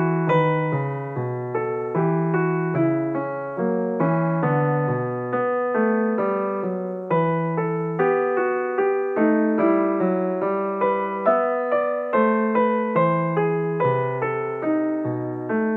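Background piano music: a gentle melody of evenly paced notes, each struck and then fading.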